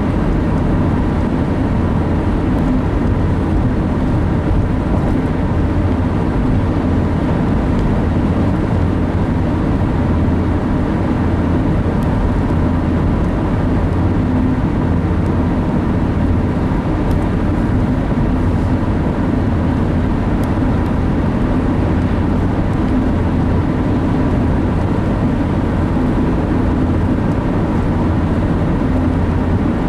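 Steady road and engine noise heard from inside the cab of a moving vehicle, an even low rumble with no changes.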